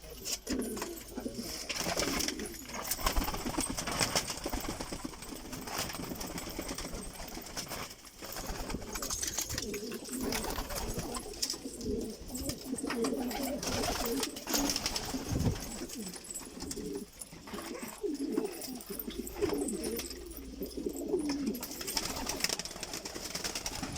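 Domestic pigeons in a coop cooing on and off, low murmuring coos overlapping, with scattered short clicks and rustles among them.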